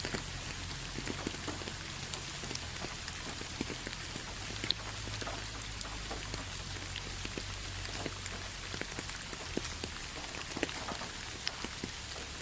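Steady rain falling, a constant hiss with many separate drops striking a surface as sharp ticks scattered throughout.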